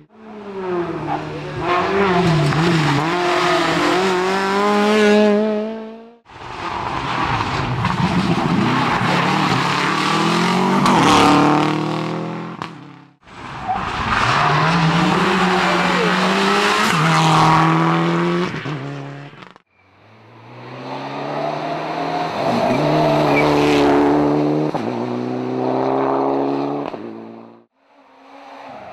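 Rally cars driven hard, their engines revving high and dropping back through gear changes; four separate passes, each cut off suddenly.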